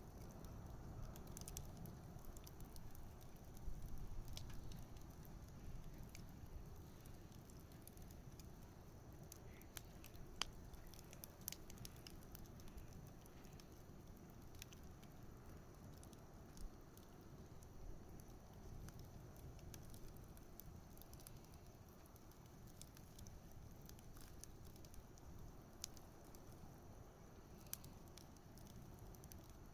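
Wood bonfire burning quietly: faint, scattered crackles and small pops over a low rumble.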